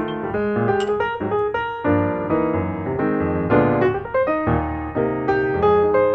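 Background piano music, a melody of struck notes over sustained chords.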